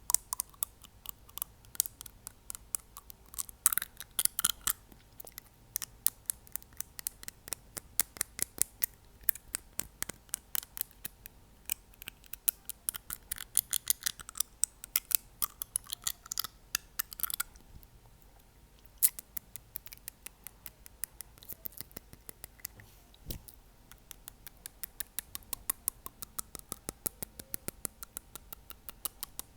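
Fingernail tapping on teeth: many sharp little clicks in irregular runs, some of them quick flurries, with a brief pause a little past halfway.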